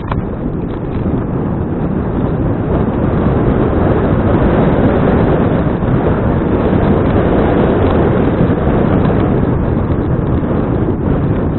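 Wind buffeting a bicycle-mounted action camera's microphone while riding, a steady loud rushing noise heaviest in the low end.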